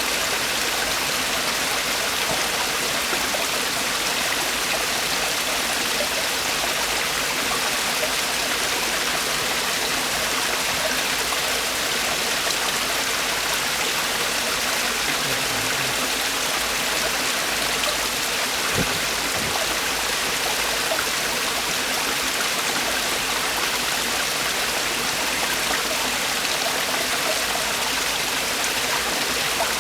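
Mountain stream rushing and splashing over rocks in a small waterfall, a steady, even rush of water.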